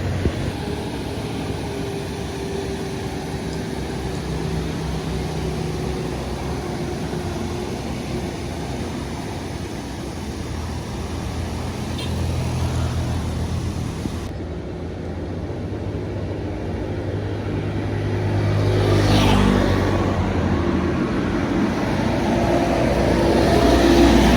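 Road traffic: the engines of passing vehicles, likely buses and trucks, run steadily. One passes close about 19 seconds in, and another draws near at the end.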